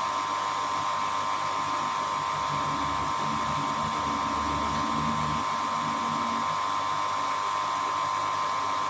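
A steady, unchanging electric whine with a low hum beneath it, like a small motor or fan running.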